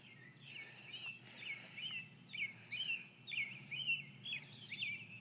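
Small bird giving a quick, steady series of sharp high chirps, about three a second, often in pairs.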